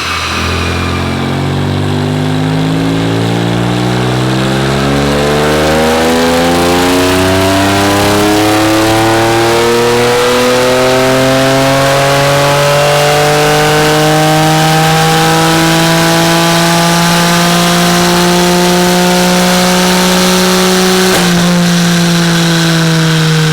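BMW F80 M3's twin-turbo S55 inline-six, fitted with a VR Performance stainless catback exhaust, pulling under full load on a chassis dyno, its pitch climbing slowly and evenly for about twenty seconds. Near the end a sharp crack marks the throttle closing, and the revs start to fall.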